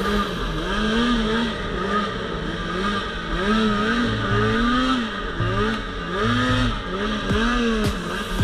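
Two-stroke snowmobile engine, a Polaris RMK Pro 800, revving up and falling back over and over as the throttle is worked, its pitch rising and dropping about once or twice a second.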